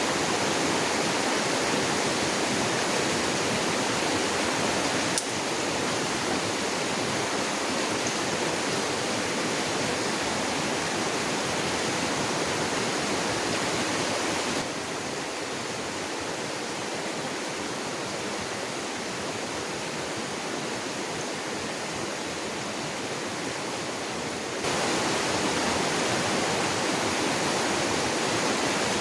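Steady rushing of water in a small forest stream. Its level drops suddenly about five seconds in and again around fifteen seconds, then jumps back up near twenty-five seconds.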